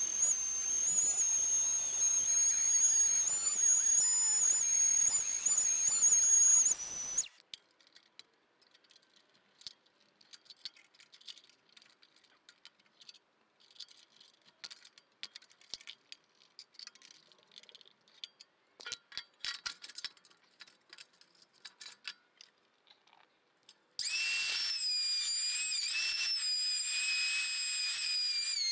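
A DeWalt random orbital sander runs with a high, steady whine, then cuts off suddenly about seven seconds in. Faint clicks and taps follow. About 24 seconds in, a table-mounted router starts and runs with a steady high whine.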